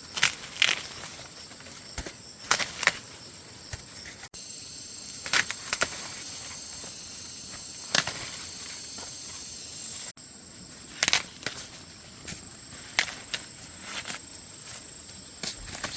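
Insects droning steadily in a high, even tone, with irregular sharp snaps, cracks and rustles close by, the loudest sounds.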